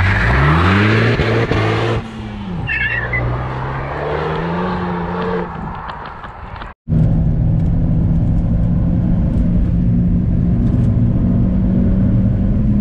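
Renault Megane F1's 2.0-litre turbo four-cylinder accelerating hard, pitch climbing under heavy wind rush on an outside camera mounted low on the car. About two seconds in it turns quieter, the engine rising and falling through gear changes; after a brief dropout near the middle it settles into a steady cruising drone heard inside the cabin.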